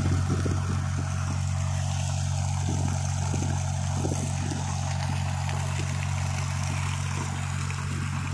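Fishing boat's engine running steadily, with water splashing and trickling now and then.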